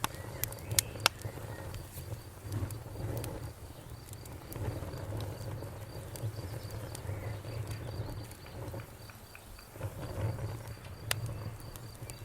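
Campfire burning with a steady low rumble and sharp crackling pops, several close together in the first second or so and one loud pop near the end. A faint, steady high-pitched trill runs underneath.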